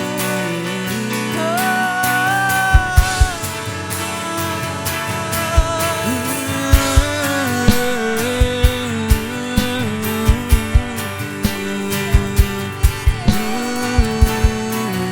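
Worship band music without words: sustained chords under a lead melody that wavers and glides, with low bass-drum thumps falling in clusters.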